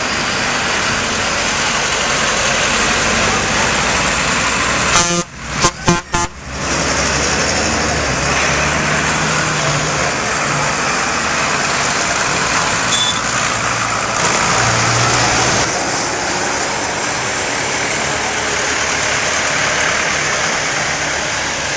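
Tractor engines running as a convoy of tractors drives by, a steady dense engine noise. It is broken by a few brief sharp cut-outs about five to six seconds in.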